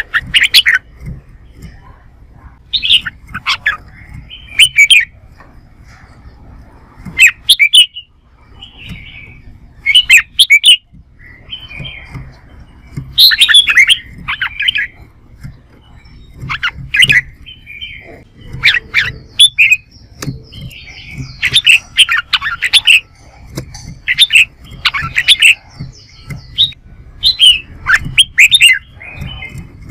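Red-whiskered bulbul singing loud, short, warbling phrases again and again, a second or two apart: its challenge song ('hót đấu'). A low steady rumble runs underneath.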